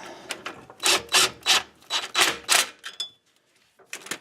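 A power tool running in a series of short, harsh bursts as it spins down the axle retainer nuts on a classic Ford 8-inch rear axle.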